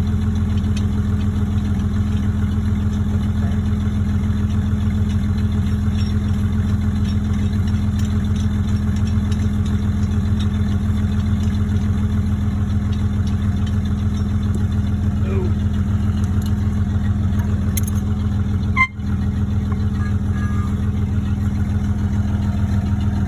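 1989 Dodge Dakota pickup engine running steadily, an even hum with no change in speed, with a brief sudden dip about three-quarters of the way through.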